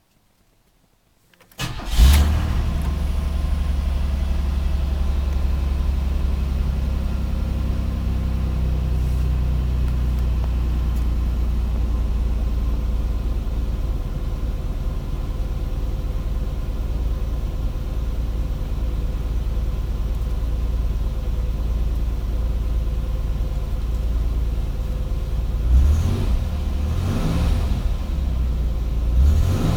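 Chevrolet Citation's engine cold-starting: it catches suddenly about one and a half seconds in and settles into a steady idle. Near the end it is blipped briefly twice.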